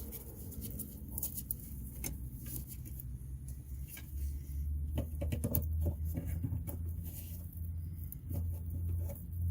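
Light, irregular clicks and rattles of plastic wiring-harness connectors and clips being handled and worked loose, heaviest about halfway through, over a low steady hum.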